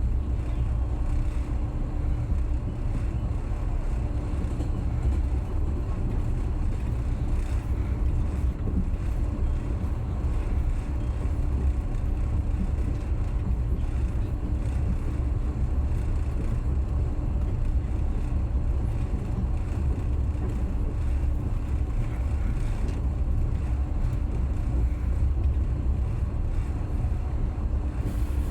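Passenger train running along the line: a steady low rumble with a faint constant hum.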